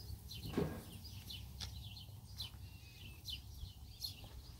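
Small birds chirping in the background: short high chirps repeating every half second or so, over a faint steady low rumble. A brief low pitched sound comes about half a second in.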